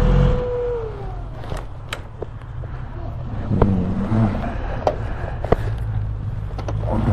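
The BMW S1000XR's inline-four engine is switched off just after the start, its steady tone gliding down as it dies. After that come a few sharp clicks and knocks.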